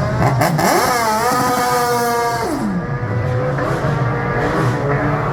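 Hillclimb race car engine revving hard and passing close, its pitch rising steeply and holding high. About two and a half seconds in the pitch drops sharply, and a lower engine note carries on.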